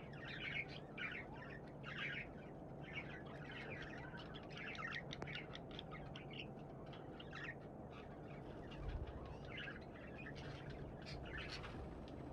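Budgerigars chirping and chattering in short, irregular bursts, several a second.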